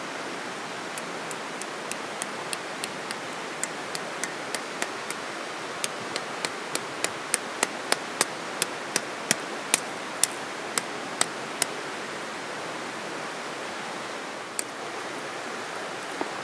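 Steady rush of a flowing stream, with a quick run of sharp taps, about three a second, that builds and then stops about three-quarters of the way through, followed by two single taps near the end.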